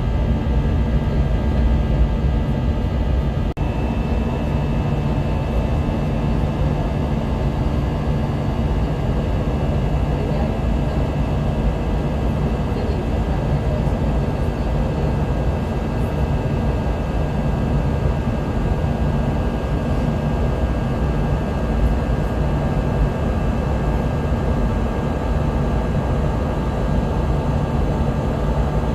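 Airbus A320 cabin noise in flight: a steady, dense rush of engine and airflow noise with faint steady whining tones above it.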